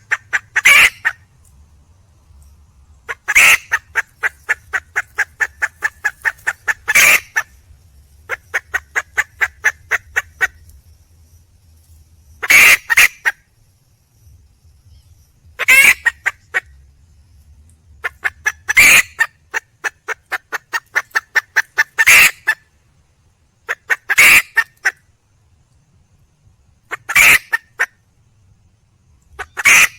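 Red junglefowl hen calling: runs of rapid, evenly spaced clucks, about four or five a second, each run ending in a louder, harsher squawk, repeated every few seconds in a cackling pattern. It is the hen's call to attract a male.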